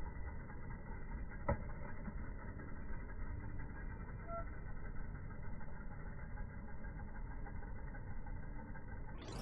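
Steady, muffled low background rumble with one sharp click about a second and a half in.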